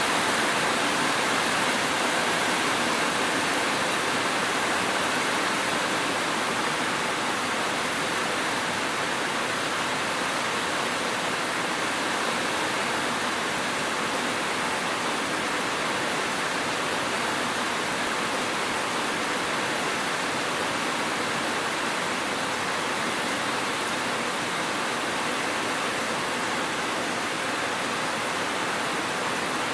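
Steady, even rain, a dense hiss with no separate drops, thunder or other events standing out.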